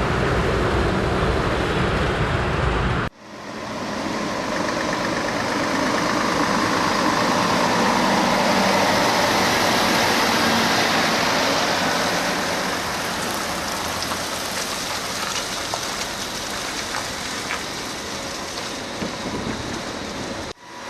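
Scania vehicle on the move: steady engine rumble and road noise. About three seconds in there is a sudden cut to a hissier stretch of tyre and wind noise that swells and then slowly eases.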